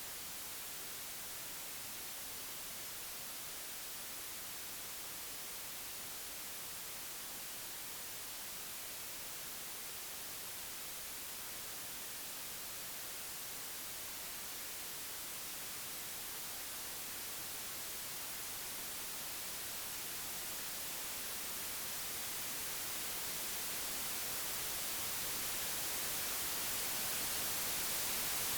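Computer-generated white noise: an even, unbroken hiss with no tones or clicks, which grows gradually louder over the second half.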